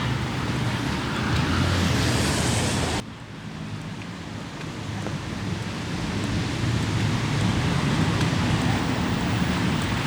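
Road traffic on wet pavement: a steady hiss of car tyres and engines. The sound drops abruptly about three seconds in, then swells back as more cars pass.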